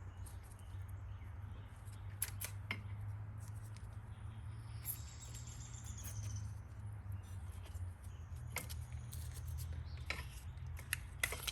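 Scattered light clicks and taps of engine-bay parts being handled and fitted back into place, over a steady low hum.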